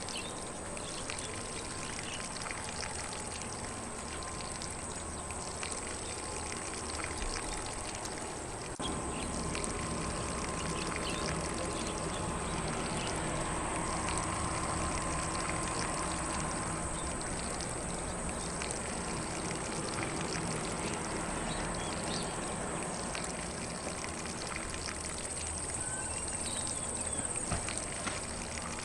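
Lawn sprinkler spraying water onto grass: a steady hiss of spray that grows a little louder about nine seconds in.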